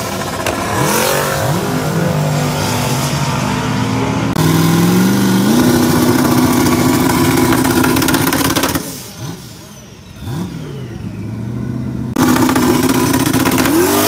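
Twin-turbo LS 5.3-litre V8 in a Mitsubishi 3000GT held at high revs on the transbrake at the start line. It falls back and is blipped a few times, then is held high again, and near the end the revs climb as the car launches.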